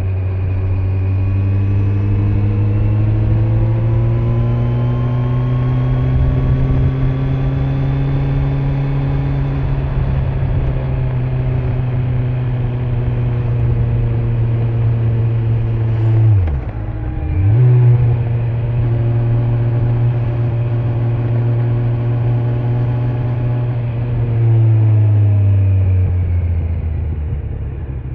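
Kawasaki Z900 inline-four engine running under way on the road with stock exhaust, over wind and tyre noise. The engine note rises slowly, dips sharply and recovers about two-thirds through, then drops in pitch and gets louder near the end.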